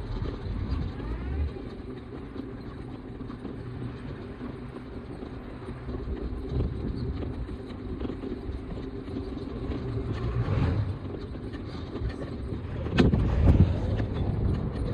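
Steady low rumble of street traffic heard while riding a bicycle, with louder wind buffeting on the microphone near the end.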